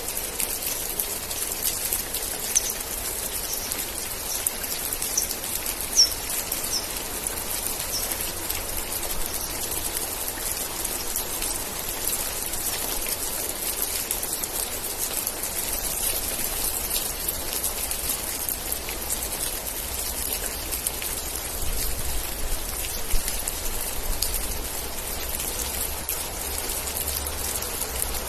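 Steady rain falling in a dense patter of drops, with a few louder single drops. A short run of high chirps sounds in the first several seconds.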